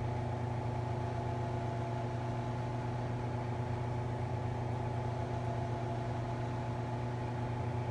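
Steady low machine hum with a few faint steady higher tones.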